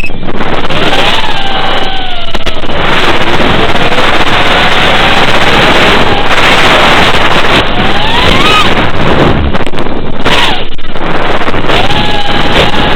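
FPV racing quadcopter's motors whining, their pitch gliding up and down with the throttle, buried in loud wind noise on the onboard microphone; the recording is harsh and poor.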